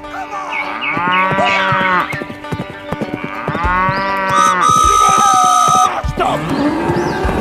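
Cow mooing twice, each moo about a second long, followed by a steady high tone lasting about a second.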